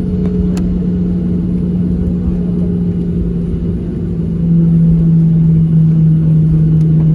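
Steady low cabin drone of a Boeing 737-700 on the ground before takeoff, a constant hum under rumbling noise; it steps up louder and a little lower in pitch about four and a half seconds in.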